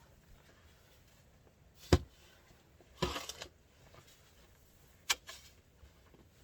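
A snow shovel striking and scooping deep snow: three sharp knocks about a second apart, the middle one with a short crunching scrape.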